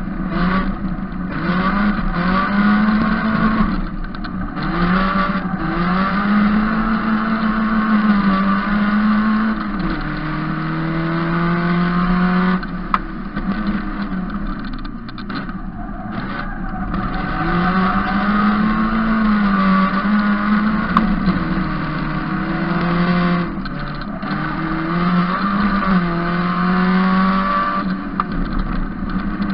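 Opel GSI-based race car's four-cylinder engine driven hard on track, revving up and dropping back again and again through the gears. The engine note falls away briefly between bursts of acceleration. A sharp click sounds twice, about halfway through and again about two-thirds of the way through.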